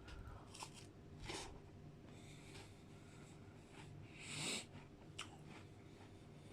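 Faint chewing, with a few soft crunches of digestive biscuits eaten with ice cream, the most distinct about a second in and again near the middle.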